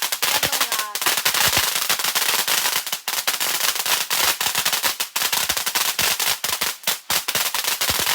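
A string of firecrackers going off in a rapid, continuous crackle of sharp bangs that stops suddenly at the end.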